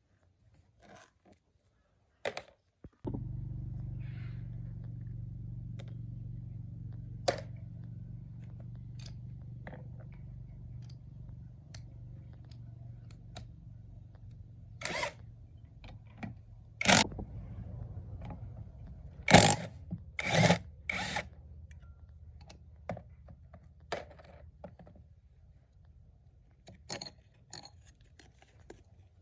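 A small motor hums steadily, starting suddenly about three seconds in and slowly fading, while metal tools clink and knock sharply now and then, loudest in a quick cluster about twenty seconds in.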